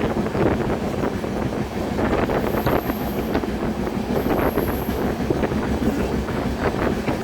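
Indian Railways passenger express train running at speed, heard from on board: continuous wheel-and-carriage rattle with irregular clacks, and wind buffeting the microphone. Two brief high-pitched squeals come near the middle.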